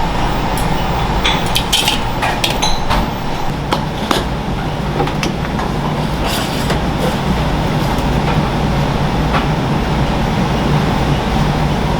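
Sushi restaurant kitchen noise: a steady low hum with scattered clinks and knocks of dishes and utensils, most of them in the first several seconds.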